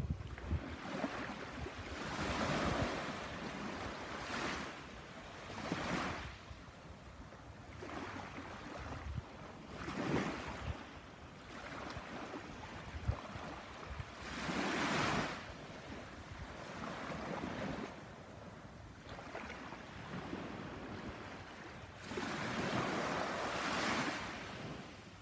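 Surf breaking and washing up on a beach, swelling and fading every few seconds, with wind buffeting the microphone.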